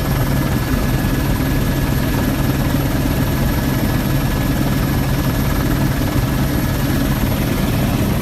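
Helicopter in flight heard from inside the cabin: the rotor and engine running with a loud, steady drone.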